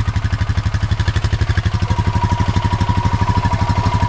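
ATV engine running steadily, its exhaust pulsing evenly at about a dozen beats a second. A thin steady whine comes in about halfway through.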